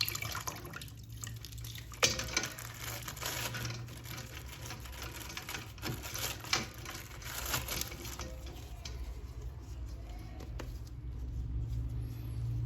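Faint water splashing and handling of a plastic action figure as it is washed, with scattered small clicks over a steady low hum.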